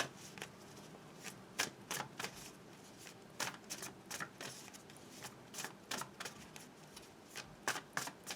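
A tarot deck being shuffled and handled by hand: a string of faint, irregular card clicks and taps.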